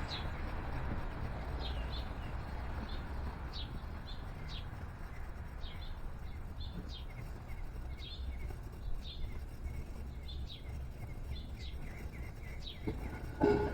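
Small songbirds chirping, many short sharp notes repeated throughout, over a steady low rumble. A louder, lower-pitched call sounds briefly about 13 seconds in.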